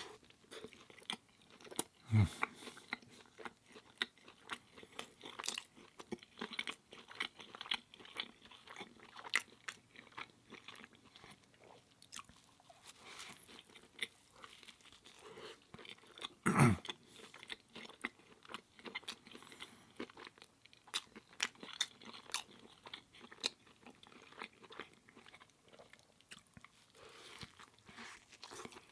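Close-miked chewing with many small crunching clicks, the mouth sounds of an eating show. Two louder thumps stand out, about two seconds in and again about halfway through.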